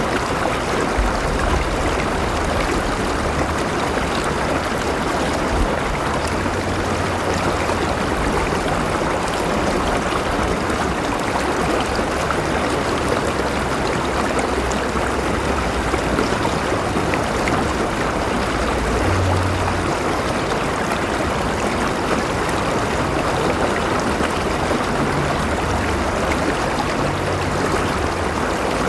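River water flowing steadily, a continuous rushing with some gurgling and no change in level.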